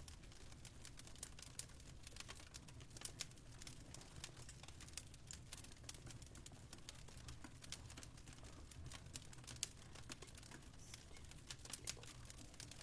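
Faint fireplace crackling: irregular sharp pops and snaps over a steady low hum.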